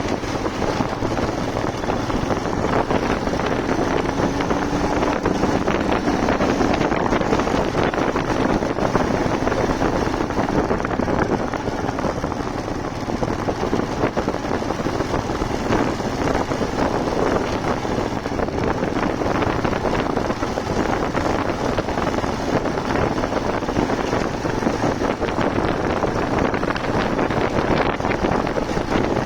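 Wind rushing over the microphone on a moving motorcycle, with the engine and road noise underneath. A faint engine note climbs slightly a few seconds in.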